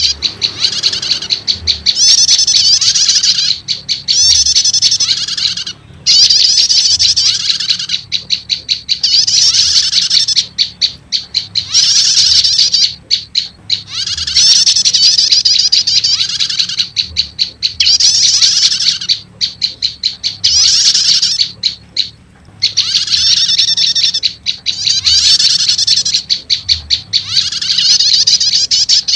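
Bird-lure recording of prenjak lumut calls mixed with prenjak 'stater' calls: loud, rapid, high-pitched chattering trills in bouts of one to two seconds with short breaks between them, a call used to draw in wild prenjak lumut.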